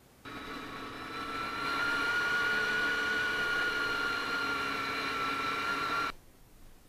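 Honda VFR400 NC30's V4 engine running at steady high revs under the rider. Its pitch climbs slightly and it gets louder about a second and a half in, then cuts off abruptly near the end.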